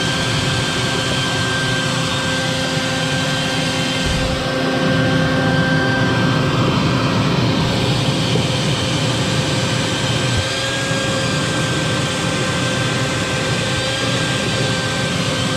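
Vacuum cleaner running steadily, a constant rush of air with a steady motor whine over it, sucking dust build-up and dead stink bugs out of a furnace's vent fan housing.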